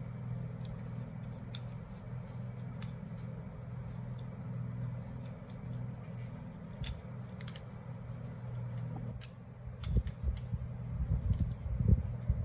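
A steady low mechanical hum with scattered light clicks, and a few low thumps near the end.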